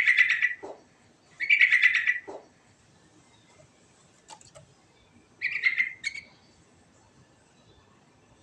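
Yellow-vented bulbul (trucukan) singing: three short, rapid, chattering phrases, one right at the start, one about a second and a half in, and a last one about five and a half seconds in.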